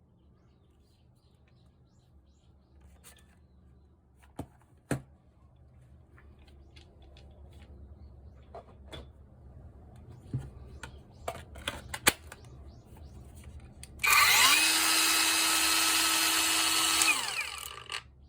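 Handling clicks and knocks, then a cordless power tool's electric motor spins up with a quick rising whine, runs steadily for about three seconds and winds down.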